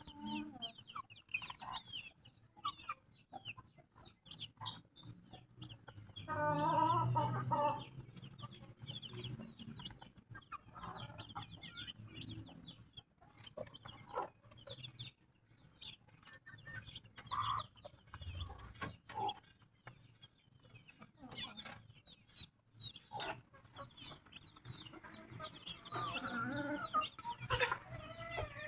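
Chickens clucking with a constant patter of short, high chick peeps, and louder, drawn-out calls from the adult birds about six seconds in and again near the end.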